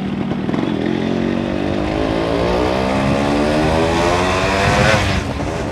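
Yamaha RX 135 two-stroke single-cylinder motorcycle engine accelerating while riding. Its note rises steadily in pitch for about four seconds, then falls away near the end.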